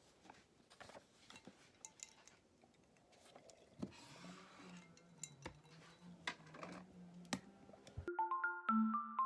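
Faint scattered clicks and taps over quiet room noise, with a low steady hum for a few seconds. About eight seconds in, light background music of marimba-like mallet notes starts and is the loudest sound.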